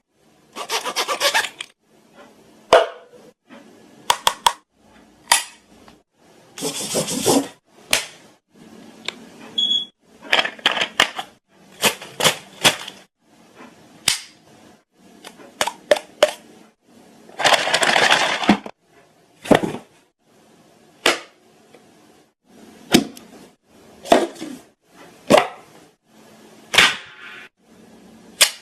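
A person making sound effects: a string of sharp clicks and pops, broken by a few short bursts of hissing.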